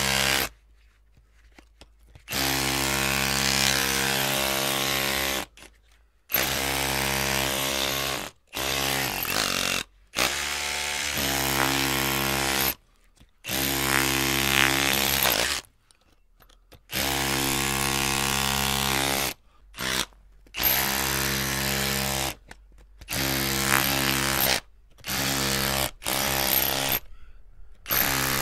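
Electric drill running in repeated bursts, switched on and off about a dozen times. Each run lasts from under a second to about three seconds, at a steady motor pitch, with short silent gaps between.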